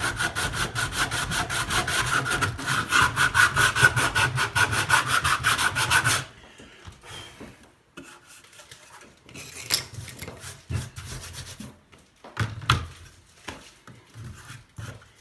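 Sandpaper on a large sanding block scrubbed in rapid back-and-forth strokes over leftover balsa wood, sanding it off a welding hood's faceplate. About six seconds in the sanding stops, and a few light knocks and handling sounds follow.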